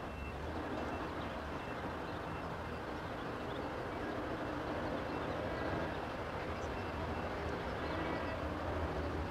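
Diesel commuter train approaching from a distance: a steady low rumble with a faint hum under outdoor background noise.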